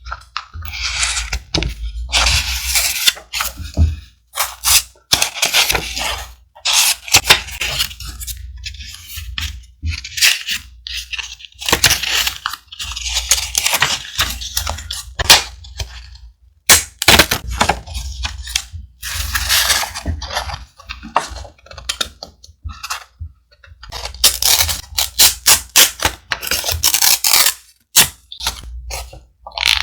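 Thick vintage paper being handled close to the microphone: repeated rustling and crinkling in bursts, broken by sharp clicks and taps and short pauses, over a steady low hum.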